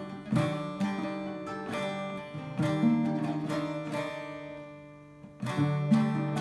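Instrumental music on acoustic guitar: strummed and plucked chords that ring out. Near the end the chords die away almost to nothing, then a new chord is struck.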